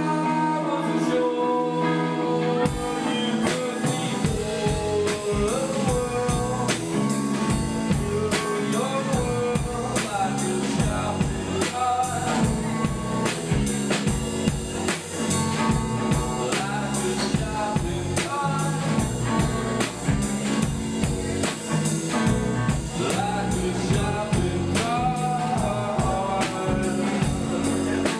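Rock band playing a song: a guitar chord rings alone, then the drum kit comes in with a steady beat about two and a half seconds in, and a singer's voice over the full band.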